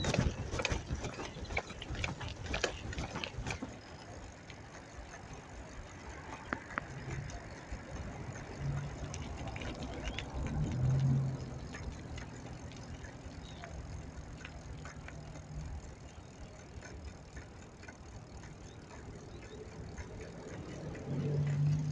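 Bicycle being ridden in traffic: rattles and clicks from the bike over the road for the first few seconds, then steady road noise with a low steady hum from traffic through the middle.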